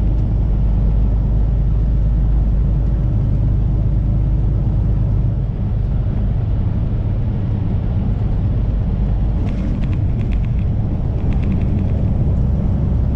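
Steady low rumble of a Kenworth semi-truck's engine and road noise heard inside the cab while driving. A brief run of rapid clicks comes in about two-thirds of the way through.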